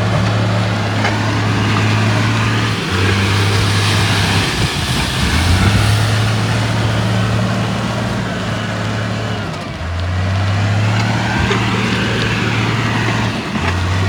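Heavy diesel earthmoving machinery running under load. Its low engine note shifts in pitch and breaks off briefly every few seconds, over a steady mechanical clatter.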